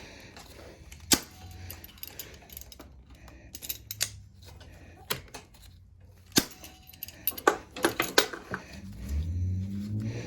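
Small metal mower parts and hand tools clinking and tapping in separate sharp clicks, with a quick run of clicks about eight seconds in. Near the end a low, wavering hum comes in.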